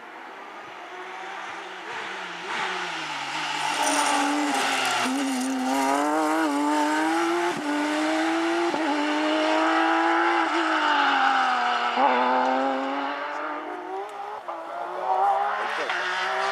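Porsche rally car's flat-six engine at full attack on a stage, growing louder over the first few seconds as it approaches. Its revs climb and fall repeatedly through gear changes and braking, with a brief tyre squeal.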